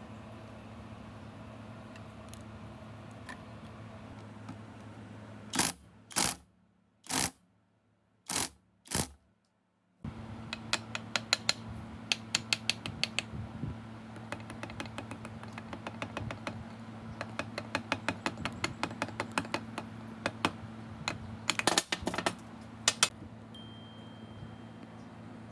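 Hand-tool work on metal engine parts: runs of rapid small clicks and taps, with a few louder sharp knocks about six to nine seconds in, over a steady low electrical hum.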